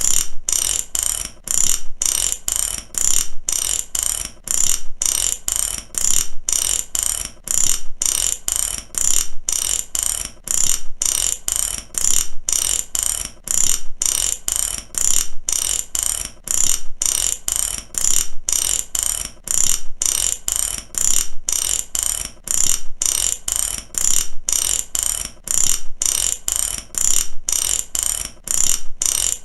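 Ratchet wrench clicking steadily, its pawl snapping over the teeth in quick runs of clicks that repeat about once a second.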